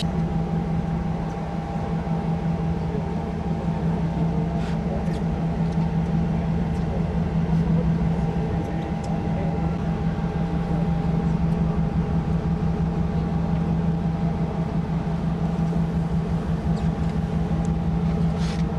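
A ship's engines and machinery running, a steady low drone with a fainter, higher hum above it that holds unchanged.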